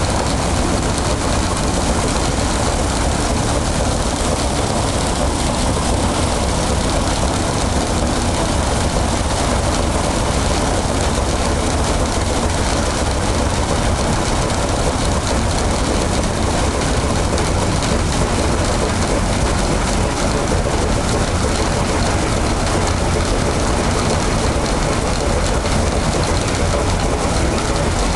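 Ilyushin Il-14's left ASh-82T fourteen-cylinder radial piston engine running steadily during a ground run-up, with a deep, even rumble and the propeller's wash.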